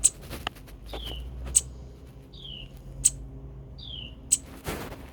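Small songbirds calling: a short downslurred call repeated about every second and a half, each followed by a sharp, very brief high note. These are the calls of the parent birds calling to their fledgling, as the owner takes them to be.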